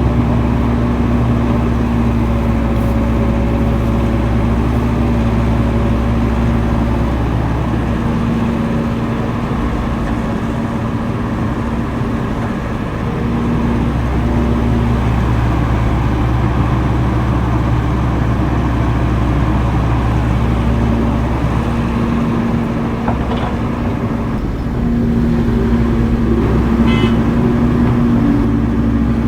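Heavy earthmoving machine's diesel engine running steadily under work. It eases off briefly about halfway through and picks up again a few seconds before the end, with a short metallic rattle near the end.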